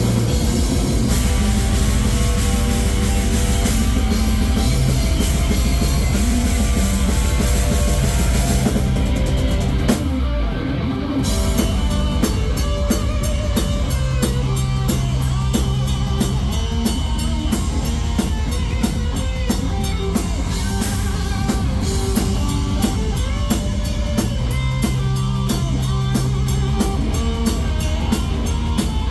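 Live heavy metal band playing an instrumental passage: distorted guitars over drums. The cymbals drop out briefly about ten seconds in, then a rapid, even drum beat takes over.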